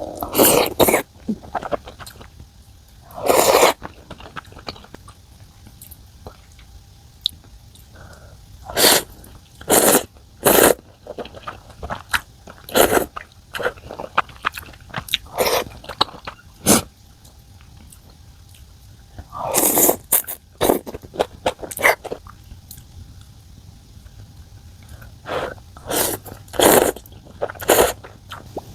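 A person eating close to the microphone: short, irregular bursts of slurping and chewing, some longer slurps among them.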